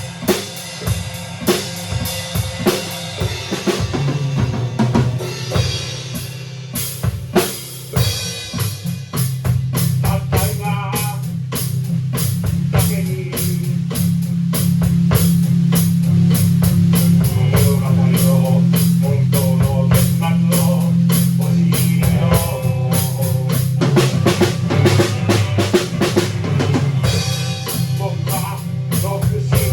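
Rock band playing live in rehearsal: drum kit with kick and snare to the fore over a steady bass and other instruments. The playing grows louder about ten seconds in.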